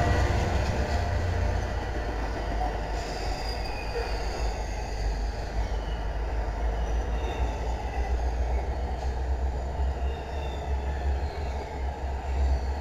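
Double-stack intermodal freight train rolling past close by: a steady low rumble of wheels on rail, with faint high wheel squeals drifting in and out.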